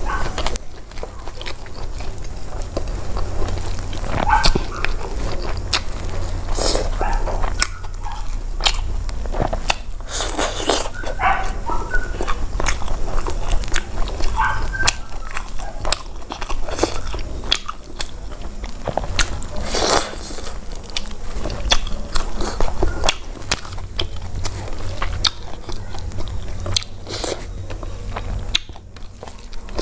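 Close-miked mouth sounds of eating rice and vegetables by hand: wet chewing with many short smacks and clicks. A steady low hum sits underneath.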